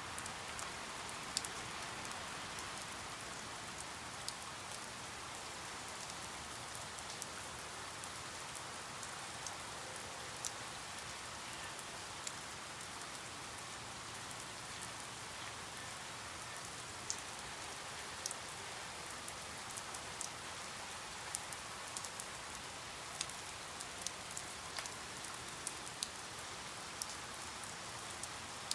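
Steady rain falling, a continuous hiss with frequent scattered sharp drop ticks.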